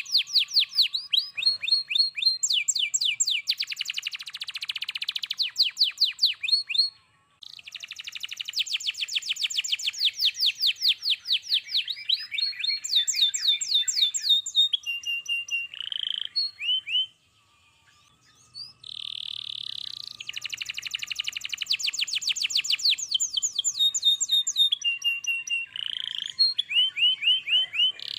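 Domestic canary singing a long, fast song of rapid trills and rolls of repeated notes, broken by two short pauses, about seven seconds in and again around seventeen seconds in.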